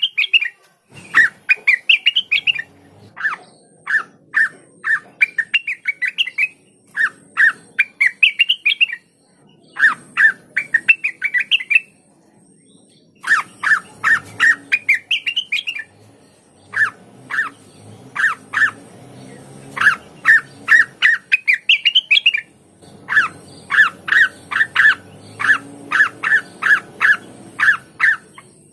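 A cucak wilis (blue-winged leafbird) singing: a series of quick, loud phrases of sharp chipping notes, many climbing in pitch, separated by short gaps, with a brief pause about halfway and a fast run of repeated notes near the end.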